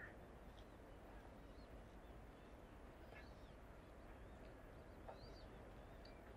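Faint ambience: short high bird chirps every second or two over a steady low background rumble.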